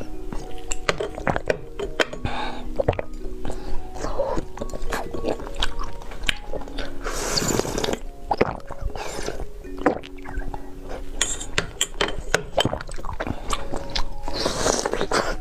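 Close-miked ASMR eating: crisp bites and chewing clicks, with two longer, louder crunching noises about seven and fifteen seconds in, over soft background music of held notes.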